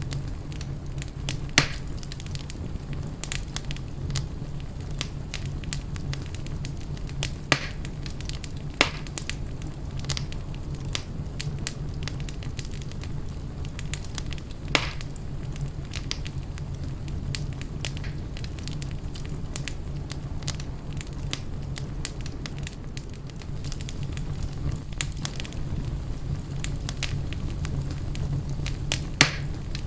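Fire burning in a fireplace: a steady low rumble with irregular sharp crackles and pops, a few of them louder than the rest.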